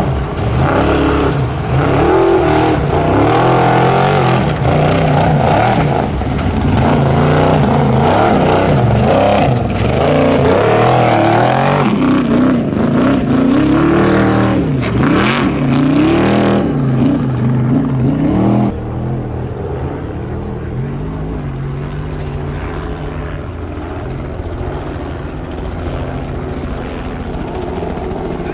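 Trophy Truck race truck engine revving hard, its pitch rising and falling again and again as the throttle works over rough ground. About two-thirds of the way in it drops suddenly to a quieter, steady engine drone.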